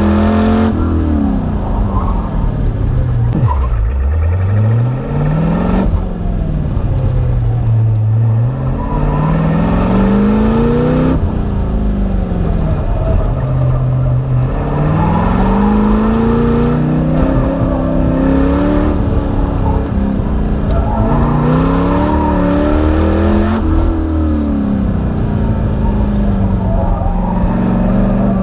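Car engine heard from inside the car on an autocross run, revving up hard and dropping back again and again, its pitch rising and falling every few seconds as the driver accelerates between cones and lifts or shifts.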